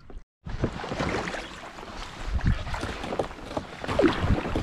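Kayak paddling: paddle strokes splashing water with scattered knocks, and wind buffeting the microphone. The sound drops out briefly just after the start.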